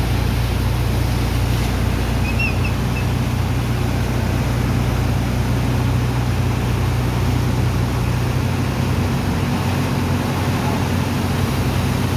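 Engine and pump of a sand dredger running steadily, a constant low hum under a continuous rush of water and sand being pumped.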